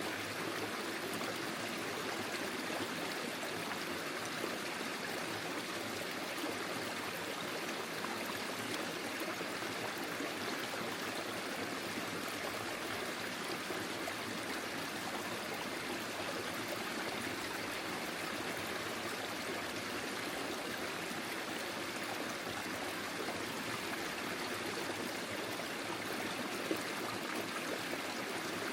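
Forest stream flowing over stones, a steady rushing and trickling of water without a break.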